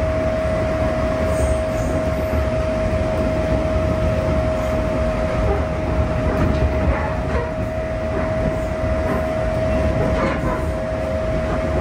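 JR East 211 series 0-subseries electric train (field-added excitation control) running, heard inside the passenger car: a low steady rumble of wheels on track with a constant hum tone over it, and a few light clicks in the second half.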